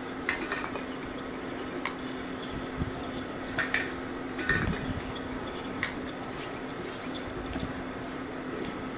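Aluminium beer cans clinking as they are dropped into the crucible of a charcoal furnace: about seven short light metallic clinks, a second or more apart, over the steady hum of the furnace's electric blower.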